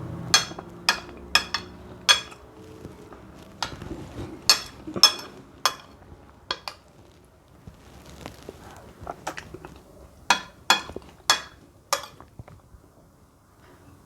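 Spoon clinking against a bowl, about fifteen strikes at an uneven pace, each with a short bright ring, as food is scooped up and eaten.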